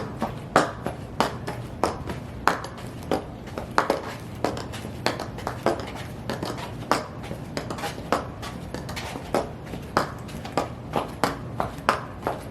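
High-heeled shoes stomping: sharp heel strikes about two a second, unevenly spaced, over a steady low hum.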